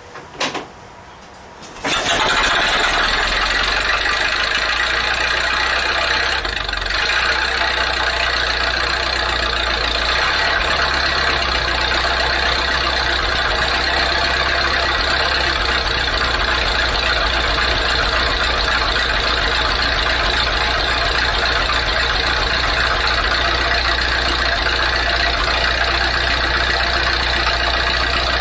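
A car engine starts about two seconds in and then runs steadily through its newly fitted exhaust, with a brief dip about six seconds in. Just before it catches there is a short click.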